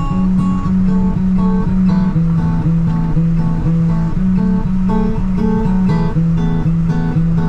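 Background music: acoustic guitar picking a repeating pattern of notes in a steady rhythm.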